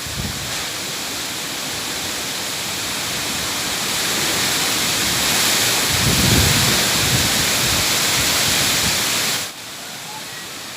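Strong, gusty wind blowing hard and buffeting the microphone with low rumbles. It builds to its strongest gust about six seconds in, then drops off suddenly near the end.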